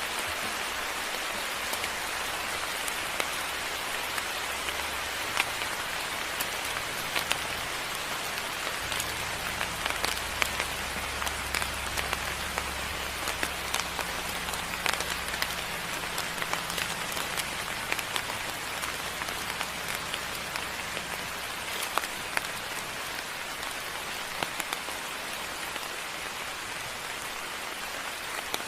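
Steady moderate rain with many individual drops ticking sharply on nearby surfaces, and a faint low rumble through the middle.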